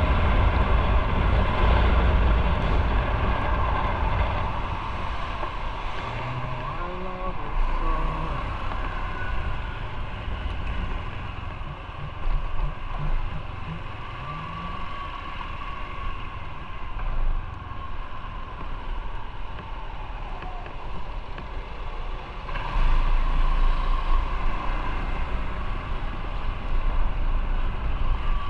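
Motorcycle on the move: engine running under wind and road noise, easing off through the middle and growing louder again near the end, with a few brief rises and falls in engine pitch.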